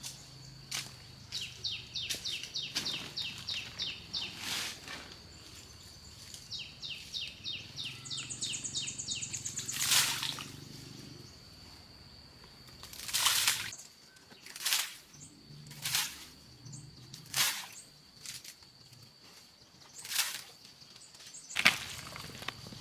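A bird chattering outdoors in two quick runs of rapid chirps over a steady high tone. In the second half there are short, sharp rustling or crunching strokes, one every second or two.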